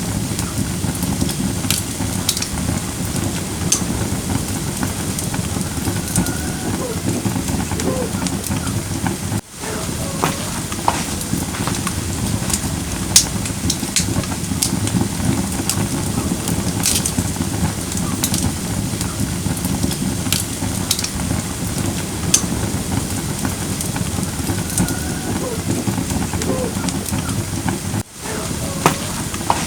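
Firewood campfire burning, with a steady low rush and frequent sharp crackles and pops. The sound cuts out for an instant twice, about a third of the way in and near the end.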